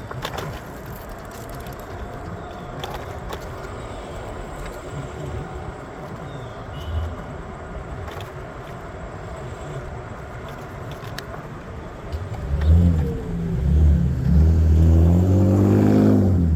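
Steady city street traffic noise, then, about twelve seconds in, a nearby motor vehicle's engine accelerating loudly, its pitch rising and then easing down near the end.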